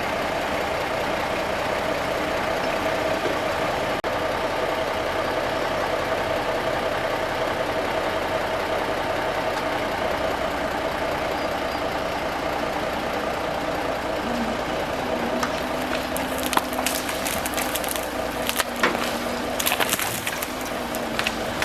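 A heavy engine runs steadily and rises in pitch about two-thirds of the way through. From there, wood snaps, cracks and splinters repeatedly, as logs and brush are dragged and broken.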